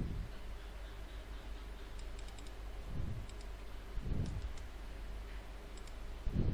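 Scattered clicks of a computer mouse and keyboard, with a few soft low thumps, over a steady low room hum.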